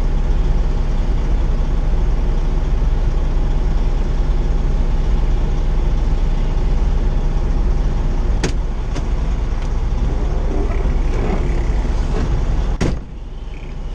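Semi truck's diesel engine droning steadily in the cab while under way, with a few sharp clicks; just before the end the drone suddenly drops away to a quieter hum.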